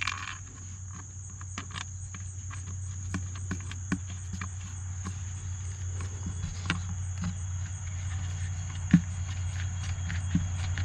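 Crickets chirring steadily over a low steady hum, with scattered light clicks and knocks from hands working on a plastic bucket while a wing nut is threaded onto a water cup's stem inside it; a sharper knock comes about nine seconds in.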